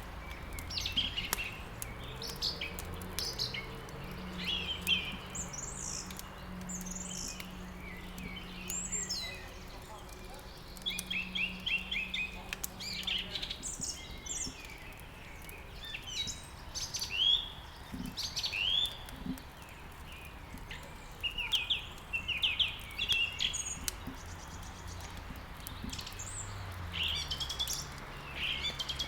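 Small songbirds chirping and twittering in quick, repeated phrases, with light crackling from a wood fire. A faint low hum runs underneath.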